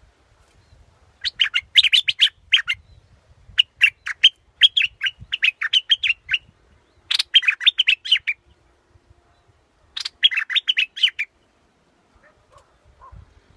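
A bulbul singing: four bursts of quick, chirpy notes, the first about a second in and the last near the end, with short pauses between them.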